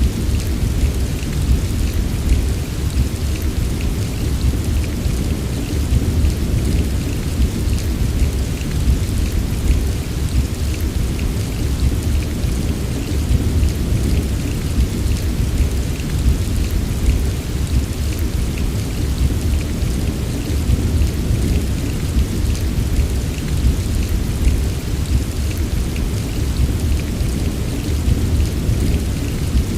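Heavy rain falling steadily, with a continuous low rumble of thunder beneath the hiss and patter of drops.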